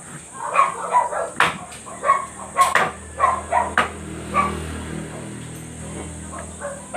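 A dog barking repeatedly, about two barks a second for the first four seconds, with three sharp knocks among the barks. A low hum follows.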